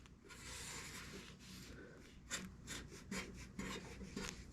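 Repeated short rasping strokes of a hand tool being worked back and forth, faint and continuous at first, then coming as distinct strokes a few times a second about halfway in.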